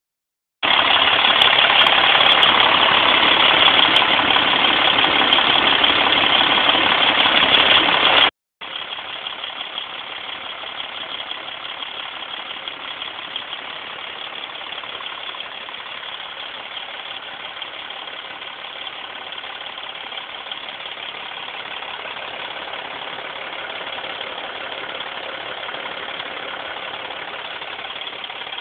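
Mercedes-Benz inline six-cylinder diesel engine in a Freightliner truck running steadily. It is loud for the first eight seconds, then after a brief break it carries on more quietly at a steady idle.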